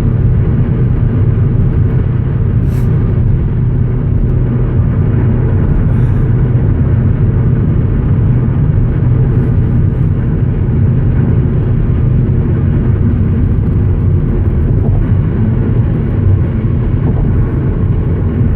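Steady engine and road noise inside a moving Ford Mustang's cabin, a constant low rumble while cruising.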